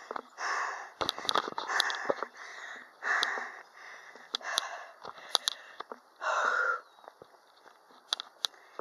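A person breathing hard through the microphone, out of breath and recovering from exertion: a heavy breath about every second, with a few sharp clicks between breaths.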